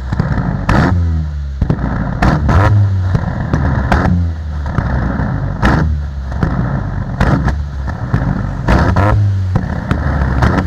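Proton Iswara's engine revved in repeated blips, with sharp exhaust bangs about ten times as a flame exhaust kit fires in the tailpipe, some of the bangs coming in quick pairs.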